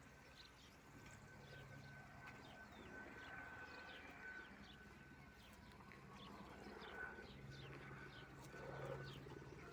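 Faint chirping of small birds: many short, quick, falling chirps overlapping throughout, with a thin steady tone beneath.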